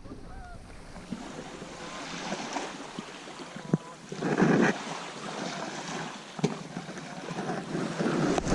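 Bay water lapping and splashing against a kayak hull, with wind buffeting the microphone and a couple of light knocks.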